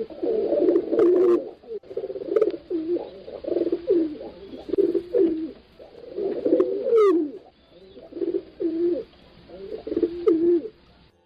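Pigeons cooing again and again in low, repeated phrases that sometimes overlap, cut off abruptly near the end.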